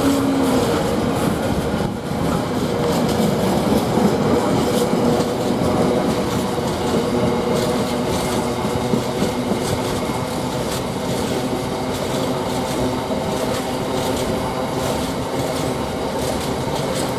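Empty container wagons of a long freight train rolling past at speed, their wheels clacking steadily over the rail joints.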